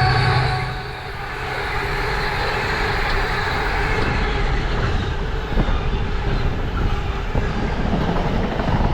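A train passing, a steady rumble and rushing noise. In the first second a falling, horn-like tone fades away.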